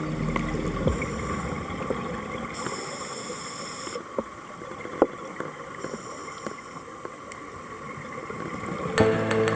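Underwater sound as recorded by a scuba diver's camera: a noisy bed of bubbling and water noise, with scattered clicks. A few stretches of high hiss, each about a second long, come every couple of seconds, like breaths drawn through a scuba regulator.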